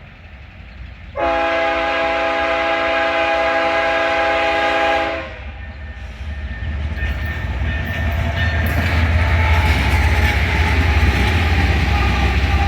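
Locomotive air horn sounding one long chord of about four seconds, then the deep rumble and rail noise of the train drawing closer and growing louder.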